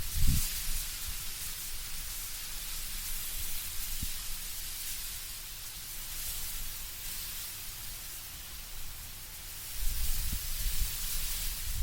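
Wind blowing through autumn trees, leaves rustling in a steady hiss, with low gusty rumbles at the very start and again from about ten seconds in.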